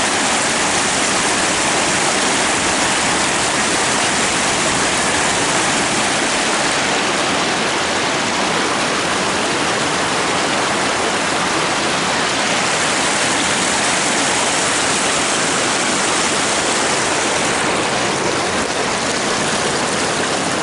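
River water pouring over a waterfall: a loud, steady rush of white water that holds unchanged throughout.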